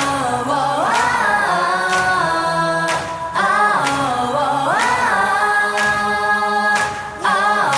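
Japanese pop song outro: music with layered singing voices, a rising and falling phrase that repeats about every four seconds.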